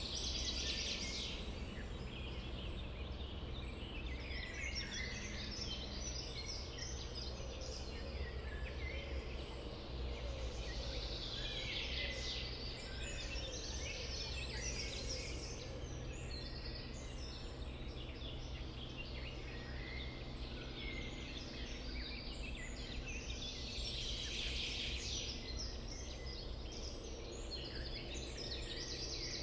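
Many songbirds singing together over a steady low rumble, the chorus swelling at the start, around the middle and again about two-thirds in.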